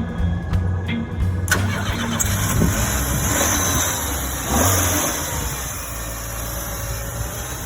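1986 Chrysler LeBaron's four-cylinder engine starting about a second and a half in, revving briefly, then settling toward a steady idle. The tail of background music is heard before it catches.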